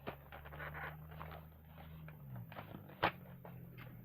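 Faint handling noise from the Crayola art capsule being opened and its contents moved: scattered clicks and rustles, with one sharper click about three seconds in, over a steady low hum.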